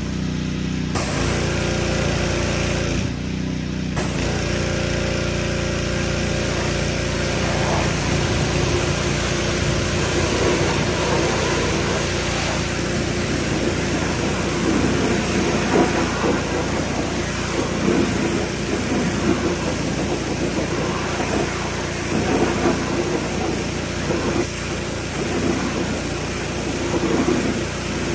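An engine running steadily under a constant hiss; the hiss cuts out for about a second near the three-second mark, then returns.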